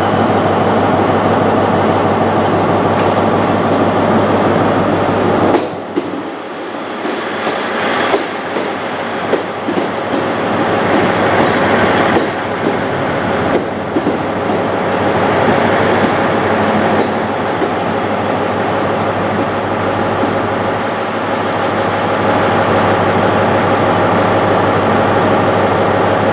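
Diesel trains at a station platform: a Class 159 diesel multiple unit pulling in, with a run of wheel clicks over rail joints, over the steady hum of idling diesel engines.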